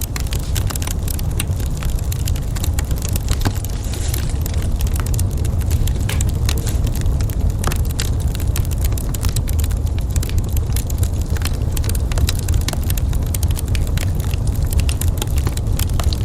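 Wood fire in a fireplace crackling, with many small sharp pops and snaps scattered irregularly over a steady low rumble.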